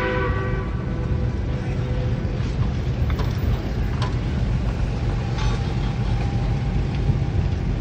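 Narrow-gauge passenger coaches rolling past at low speed: a steady low rumble of wheels on rail with scattered clicks and knocks from rail joints and couplings. The tail of the steam locomotives' whistle fades out right at the start.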